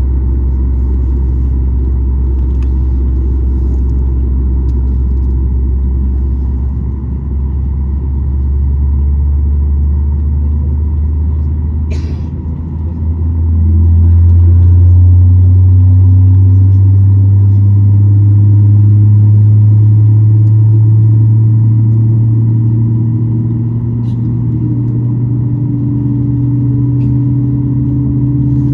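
Boeing 737 MAX 8's CFM LEAP-1B engines and airframe heard from the cabin: a steady low rumble, then about halfway through a low hum comes in, louder, and rises slowly in pitch as the engines spool up.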